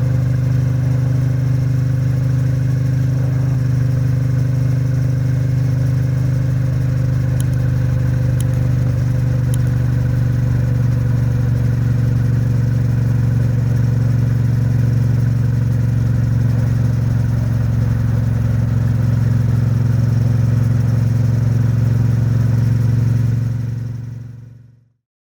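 Triumph Bonneville T100's 900 cc parallel-twin engine running at a steady, unchanging speed. It fades out near the end.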